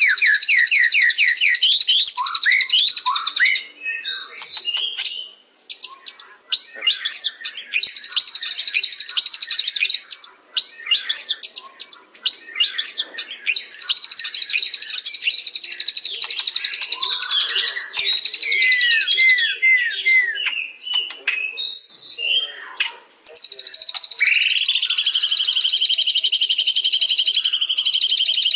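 White-rumped shama (murai batu) singing a long, varied song. Long runs of rapid, buzzy high trills alternate with clear whistled notes and quick down-slurred phrases, and a long held whistle comes under a trill near the end.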